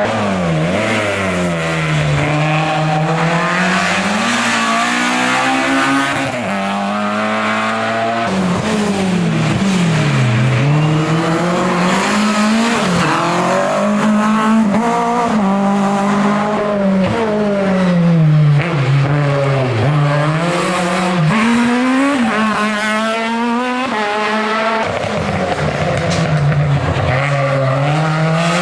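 Hill-climb race car's engine at full effort, its pitch climbing and dropping back again and again as it accelerates, shifts and brakes through a run of corners.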